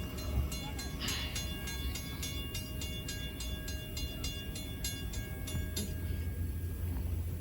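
Train hauled by Norfolk and Western 611, a steam locomotive, running past: a steady low rumble with rhythmic clicking, about three a second. The clicking stops about six seconds in while the rumble grows louder.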